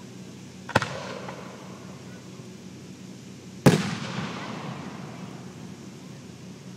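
Aerial fireworks shells bursting: two sharp bangs about three seconds apart, the second louder, each trailing off in echo.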